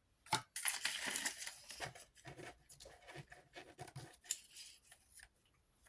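Scissors cutting through paper: a run of short snips, busiest in the first second or so, then lighter cuts spaced out and fading near the end.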